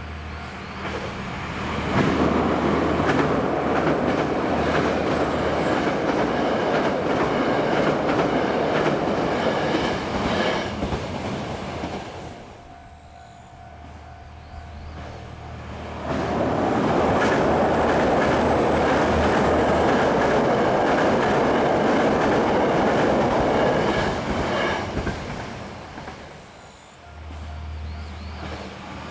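KTR8000 diesel express railcars passing at speed, wheels clattering over the rails. The loud pass drops away about twelve seconds in, then a second loud pass builds a few seconds later and fades near the end.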